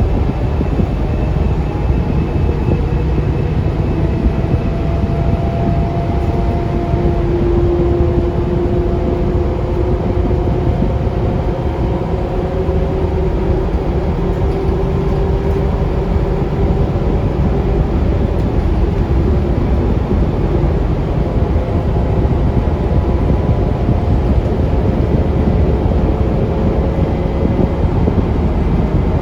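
Scania K360UA articulated bus, its five-cylinder Scania DC9 diesel and ZF Ecolife automatic gearbox, heard from on board while driving: a steady low rumble with faint whining tones that slowly rise in pitch, one dropping about seven seconds in.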